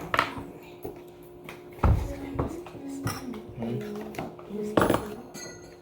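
Kitchen utensils and a mixing bowl clattering, with three sharp knocks: one at the start, one about two seconds in and one near the end, and lighter clinks between.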